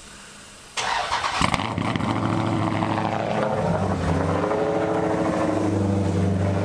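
Dodge Charger's Hemi V8 remote-started: about a second in it fires with a sudden loud burst and a brief flare of revs, then settles into a steady idle.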